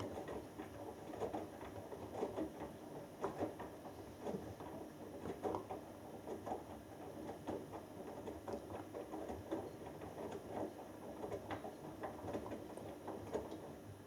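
Hoover Dynamic Next washing machine early in a cotton wash: the drum tumbling a wet 6 kg load, with water and clothes splashing and slapping inside, a few irregular soft thuds a second.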